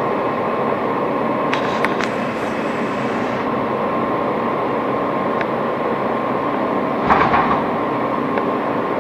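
Steady rumble and hum inside an R160 subway car, with a constant whine-like tone running through it. A few sharp clicks come about one and a half to two seconds in, and a brief louder rattle about seven seconds in.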